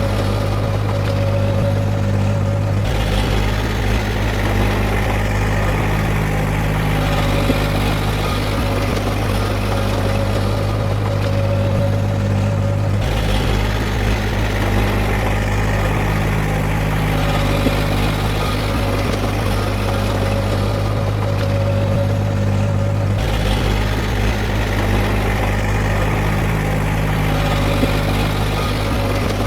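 Heavy earthmoving machine's diesel engine running steadily with a deep hum. The low rumble changes abruptly about every ten seconds.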